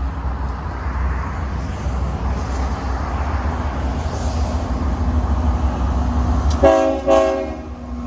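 Union Pacific locomotive's Nathan K3HL five-chime air horn sounding two short blasts near the end, over the steady low rumble of the approaching train.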